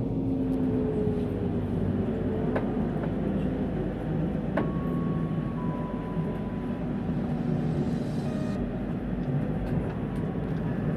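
Steady low rumble of a moving vehicle, with a few faint whining tones, one sliding down in pitch near the start, and scattered light clicks.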